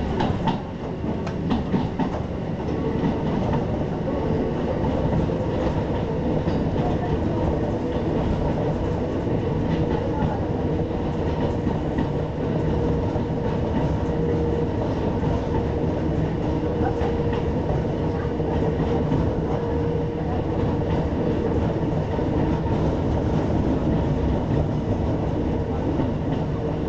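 Hakone Tozan Railway electric train running, heard from inside the passenger car: a steady rumble of wheels on rail with a faint steady hum. A few sharp clicks come in the first two seconds.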